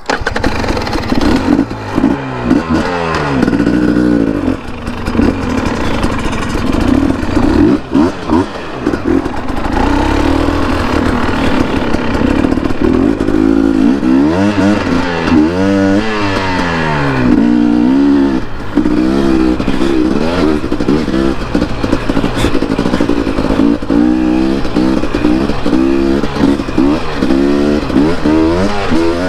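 Dirt bike engine under way on a trail, its pitch climbing and dropping again and again as the rider opens and rolls off the throttle through the gears.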